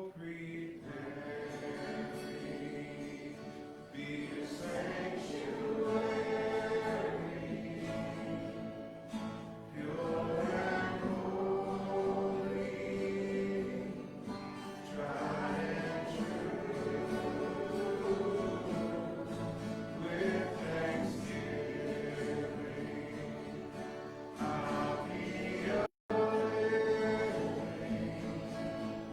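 Church congregation singing together in sustained, phrase-by-phrase swells of many voices. The sound cuts out for an instant near the end.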